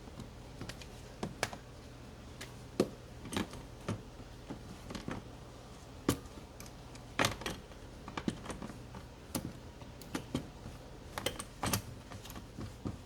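Scattered light clicks and knocks of hand work with tools and parts, irregular and about one or two a second.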